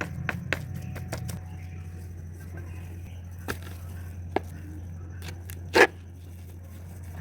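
Scattered clicks and sharp knocks, like objects being handled and set down, over a steady low hum, with the loudest knock near the end.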